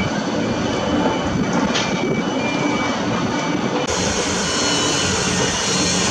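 Heavy construction machinery running with a steady, loud diesel engine drone and a few short high tones in the first half. About four seconds in the sound changes abruptly and a brighter hiss joins the engine.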